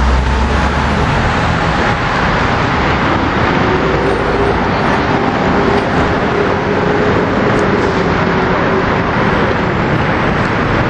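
Road vehicle and traffic noise, a loud steady rush with a faint steady tone through the middle.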